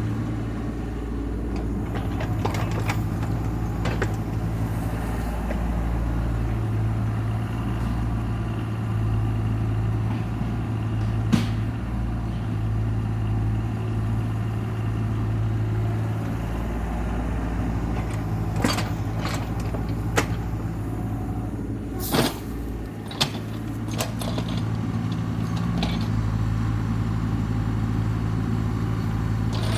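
Heavy land-clearing machine's engine running steadily under varying load, with sharp metallic clanks and knocks, one about 11 seconds in and several between about 18 and 24 seconds in.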